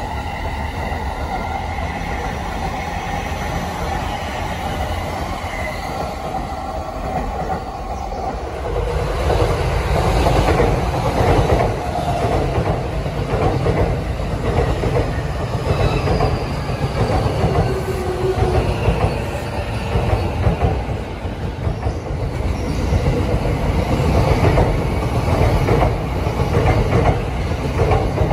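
JR electric commuter trains on the rails. For about the first eight seconds one train runs with a steady high whine, then a second train passes close by, a louder low rumble with rapid wheel clatter over the rail joints.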